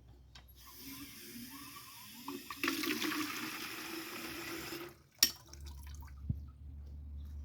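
Water running from a tap into a plastic chicken waterer, filling it to test a welded crack for leaks. The flow gets louder partway through and stops about five seconds in, followed by a sharp click.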